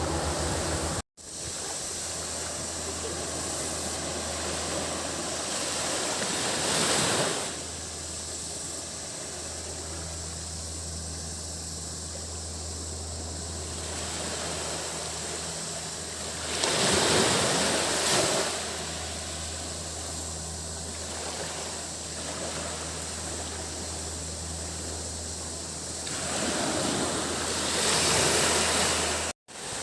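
Surf washing onto a tropical beach, with a wave swelling and breaking about every ten seconds, over a steady high-pitched drone of cicadas. A low steady hum runs underneath. The sound cuts out briefly to silence about a second in and again near the end.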